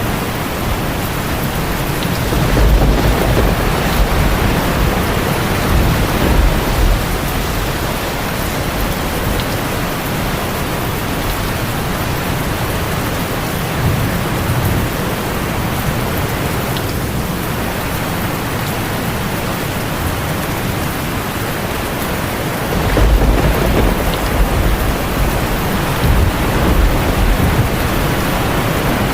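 Heavy rain drumming steadily on a tin roof, with a low roll of thunder rumbling for several seconds starting about three seconds in, and another near the end.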